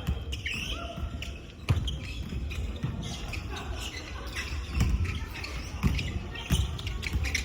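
Volleyball being played in a gym hall: several sharp thumps of the ball being hit and bouncing on the court, about one to two seconds apart, with short squeaks and shuffling over an echoing hall background.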